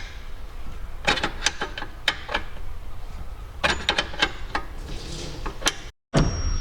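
Irregular metallic clicks and knocks from hand tools and parts being worked in a car's engine bay, coming in short clusters over a low steady background rumble.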